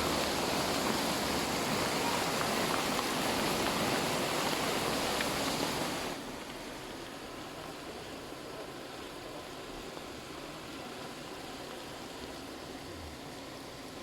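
Heavy rain pouring down, a dense steady hiss that drops suddenly to a quieter rain about six seconds in.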